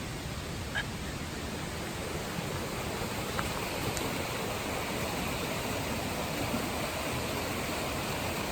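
Steady, even rushing noise, with a few faint ticks about one second, three and a half seconds and four seconds in.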